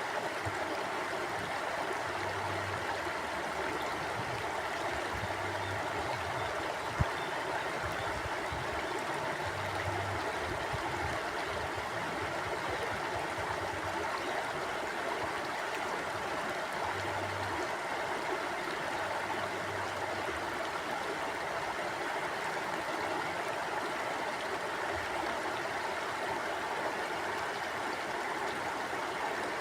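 Mountain stream flowing steadily, a continuous rush and gurgle of water. A single brief sharp click stands out about seven seconds in.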